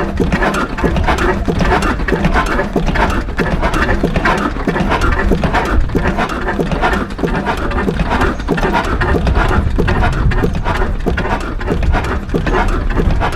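Large antique stationary engine running, with a steady, even rhythm of exhaust beats and mechanical knocks.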